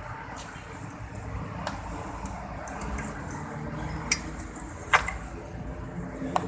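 Steady outdoor background hum of road traffic, with a few sharp clicks over it, the loudest about five seconds in.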